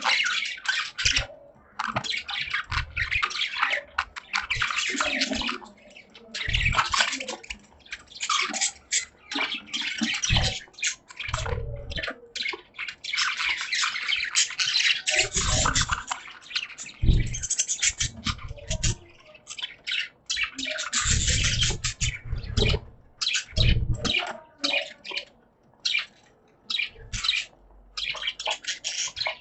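Pet budgerigars chattering and chirping in rapid, overlapping bursts, with a few short low thumps mixed in.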